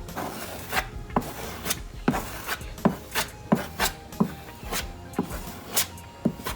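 Body filler being spread onto a car bumper with a filler spreader: a series of short scraping strokes, about two a second.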